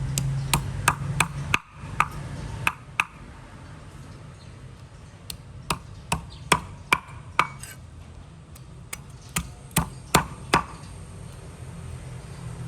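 A string of sharp, irregular taps on something hard, about twenty in all: a quick run in the first three seconds, then another run from about five to eleven seconds, over a steady low hum.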